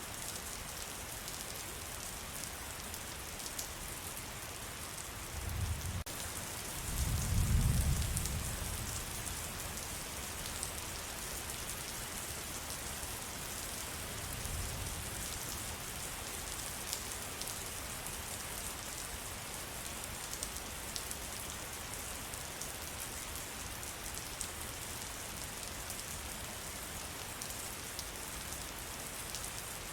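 Steady rain falling in a forest: an even hiss with scattered small drip ticks. A low rumble swells and fades about six to nine seconds in, with a fainter one around fourteen seconds.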